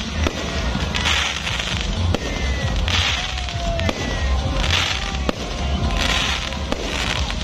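Aerial fireworks display going off: a dense run of sharp bangs, with bright crackling hiss swelling up every second or two as the shells burst.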